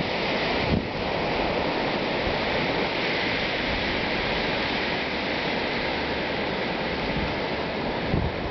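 Strong blizzard wind blowing in one sustained gust, a steady rush of noise without breaks.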